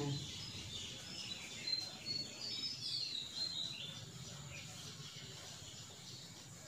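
Small birds chirping, a run of short high notes, some sliding downward in pitch, over a low steady hum.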